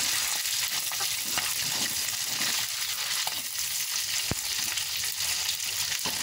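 Shrimp sizzling as they fry in hot oil in a wok, with the metal utensil stirring them and scraping against the pan; a single sharp click about four seconds in.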